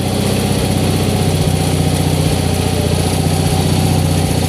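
The small engine of a Wheel Horse-based Air Horse aircraft tug runs steadily, driving its hydraulic pump. The engine note grows slightly stronger about a second in.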